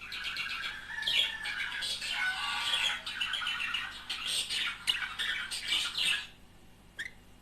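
Budgerigars chattering and warbling, a dense run of squawks and chirps that stops after about six seconds, followed by a single short chirp.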